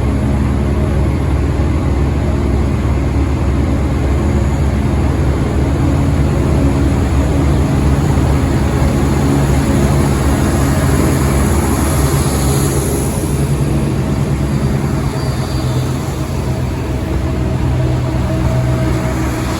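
Train running at the platform: a loud, steady low rumble with a pitched engine hum, and a faint high whine about two-thirds of the way through.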